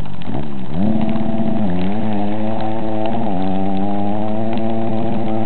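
Four-stroke motorcycle engine running under throttle. Its pitch dips and climbs in the first second, then climbs again about three seconds in and holds at high revs.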